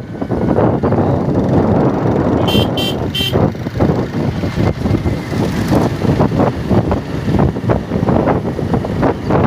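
Motorcycle riding along with wind rushing over the microphone, its horn beeped three times in quick succession about two and a half seconds in.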